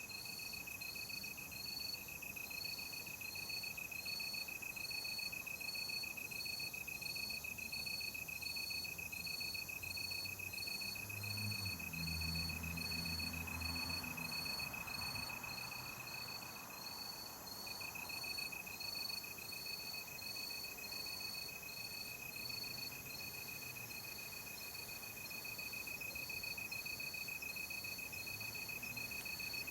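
Night insects chirping: crickets with a continuous high trill and, over it, regular short higher chirps a little more than once a second. A faint low rumble comes and goes about halfway through.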